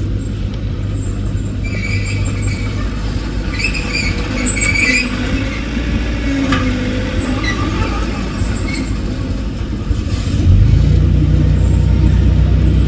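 Heavy diesel earthmoving machine running with a low, steady drone, with short high squeaks a few seconds in. About ten seconds in, the engine note steps up and grows louder, as under load or throttle.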